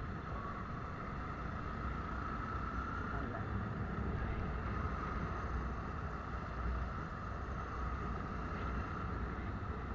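Steady running noise of a vehicle on the move, a low engine and road rumble with a faint wavering whine above it.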